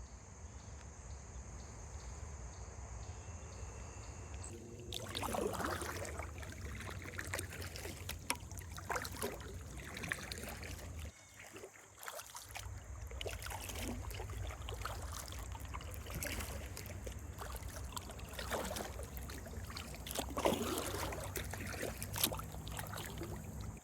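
Kayak paddle strokes swishing and dripping in river water, one stroke every two to three seconds, starting about five seconds in.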